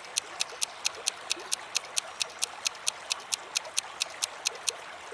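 Quiz countdown-timer sound effect: clock-like ticking, about four to five even ticks a second, that stops shortly before the answer.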